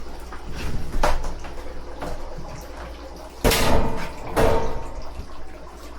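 Metal clanking as kitchen equipment is handled: a knock about a second in, then two loud ringing clanks about a second apart, over a steady low hum.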